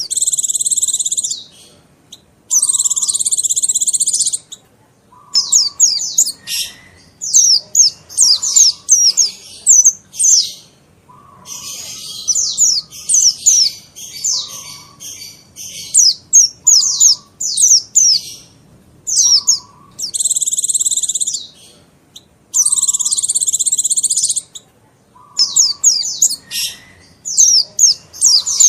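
Pleci (mountain white-eye) song: quick runs of high, falling chirps with dense, buzzy trills of about a second and a half, two near the start and two again about two-thirds of the way through. A short lower note recurs every second or two.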